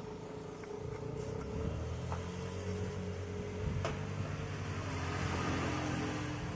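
Steady low motor-vehicle rumble that swells a little in the second half, with a few light clicks.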